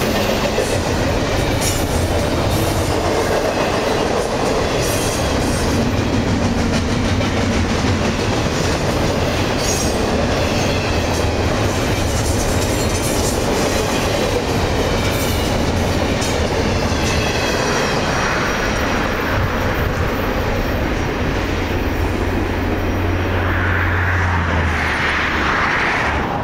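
A CSX intermodal freight train passing close by: a loud, steady rumble of steel wheels on rail, with sharp clicks from the wheels in the first few seconds.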